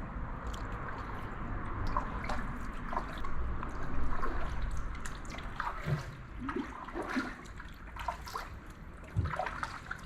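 Kayak paddle strokes: the blades dipping into the water, with splashing and water dripping and trickling off the paddle in many small splashes throughout.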